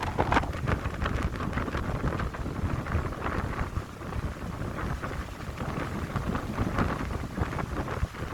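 Wind blowing through a pine grove, gusting and buffeting the microphone with a low rumble that rises and falls, over a crackly rustle.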